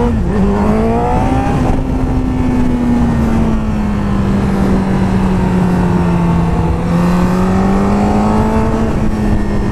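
Sport motorcycle engine pulling hard, revs climbing for the first second and a half after a gear change, then holding steady high revs with a slight dip and rise. Wind noise runs underneath.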